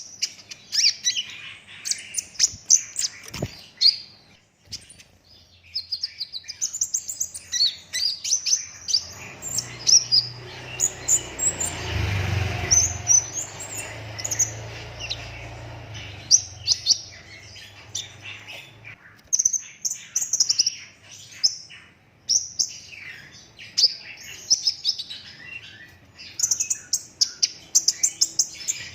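A sunbird (kolibri ninja) singing in long runs of rapid, high twittering chirps and trills, with a short pause early on. A low hum sounds underneath through the middle stretch.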